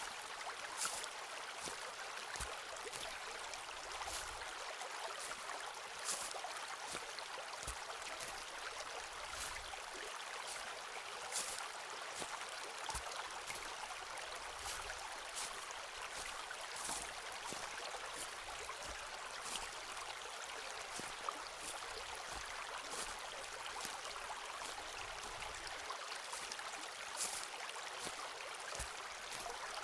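Footsteps walking along a forest path, a short crunching step roughly every half second to second, over the steady rush of a flowing stream.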